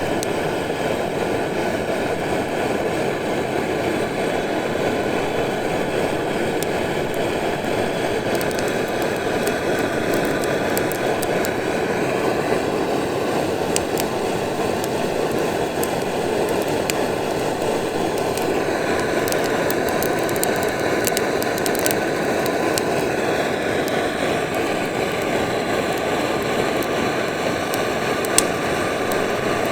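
Shinfuji Do-Ga GT-110 cassette-gas torch burner running at full flame, a steady roar, as it is used to light damp wood. Faint, scattered crackles come from the wood in the flame.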